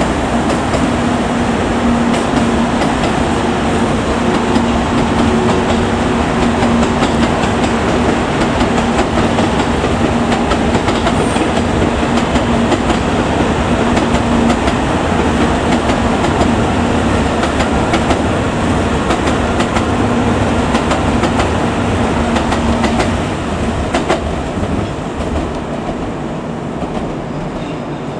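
N700 series Shinkansen train running along the track: a steady rumble of wheels on rail with a low steady hum, growing quieter about three-quarters of the way through.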